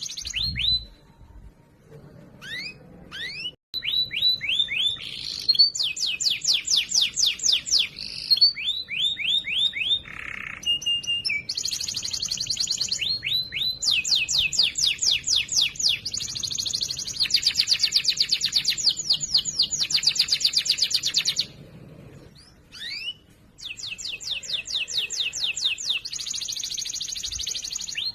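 Domestic canary singing a loud, clear song of fast trills and quickly repeated sweeping notes, with short pauses about two seconds in and again about twenty-two seconds in.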